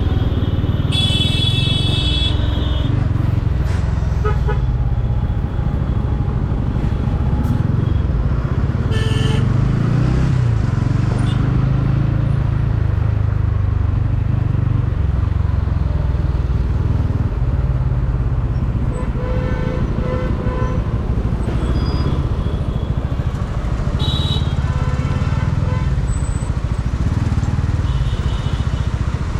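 Motorcycle riding through heavy road traffic: steady engine and wind rumble, with vehicle horns honking several times, the loudest near the start.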